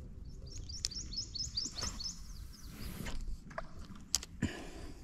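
A small bird singing a quick series of high, downward-slurred notes, about four a second, that stops after about two seconds. A couple of sharp clicks and a short knock follow near the end.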